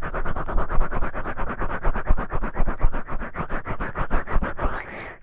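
Ear-cleaning ASMR scratching: an ear pick scraping in quick, even strokes, about nine a second.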